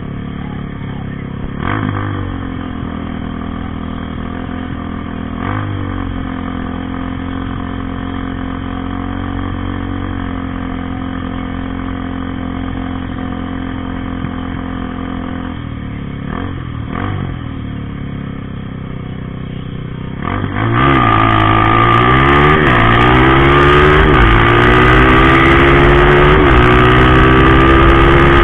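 Drag-racing motorcycle engine idling with a few short throttle blips, then launching at full throttle about three quarters of the way in and accelerating hard, the pitch climbing and dropping back at each upshift.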